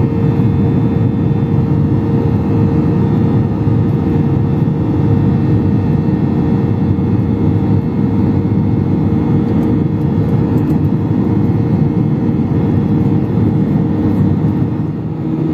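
Steady cabin noise of a Boeing 737-800 in flight: the rush of air past the fuselage and the drone of its CFM56 engines, with a steady hum running through it.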